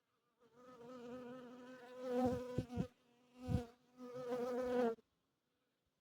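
Honeybee buzzing close to the microphone: a steady wingbeat hum that starts about half a second in and cuts off suddenly near the end. A few low thumps come in the middle and are the loudest sounds.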